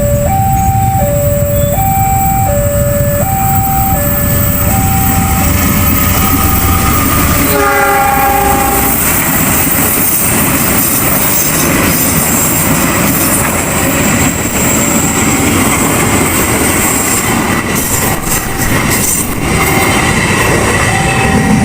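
A railroad crossing's two-tone warning signal alternates steadily. About seven seconds in, a train sounds its horn once, briefly, and the train then passes close by, its wheels clattering over the rails, almost drowning out the crossing signal until it comes back through near the end.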